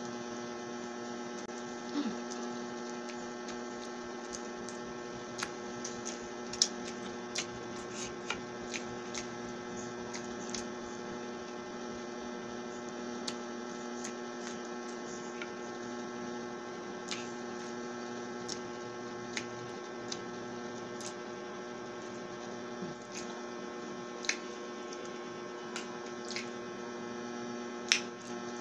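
Close-up eating sounds as soft sponge cake is chewed: sharp wet mouth clicks and smacks scattered through, every second or so. Under them runs a steady electrical hum of several tones.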